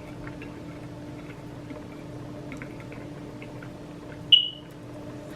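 Quiet eating sounds with faint small clicks over a steady low hum. About four seconds in, one sharp ringing clink of a utensil against a dish.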